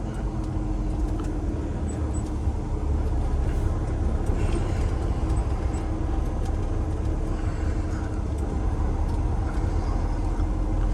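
Cummins X15 diesel engine of a Peterbilt 389 semi truck running steadily at road speed, heard inside the cab as a low, even drone with road noise.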